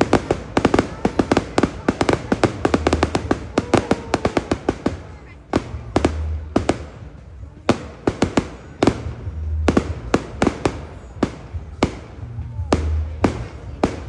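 Fireworks display going off: rapid sharp bangs and crackles, densest in the first five seconds, then thinning to single bangs every second or so. Underneath, music with a slow, regular low bass beat.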